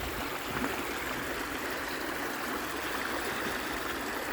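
Stream water flowing, a steady rushing sound.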